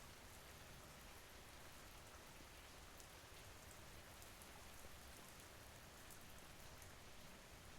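Faint, steady rain falling, with scattered light drop ticks over an even hiss.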